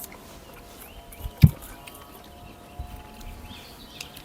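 A single sharp knock about a second and a half in, over a faint outdoor background.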